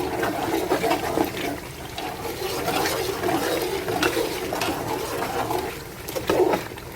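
A spoon stirring thick blended tomato and pepper paste as it fries in oil in a pot on low heat, making an uneven wet churning and sloshing with light clicks of the spoon.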